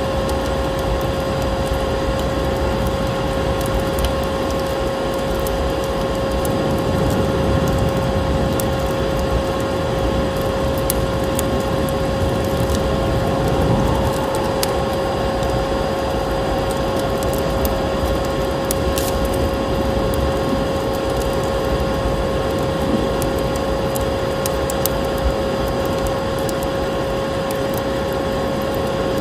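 Vacuum cleaner motor running steadily with a constant whine, with a scatter of small sharp crackles over it like a wood fire.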